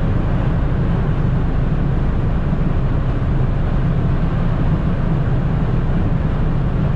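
Steady drone of a 1996 Opel Corsa B 1.4i's four-cylinder engine with road and wind noise, heard from inside the car while driving, with no change in revs.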